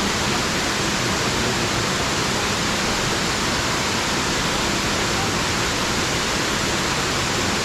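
Steady, even rush of a small waterfall.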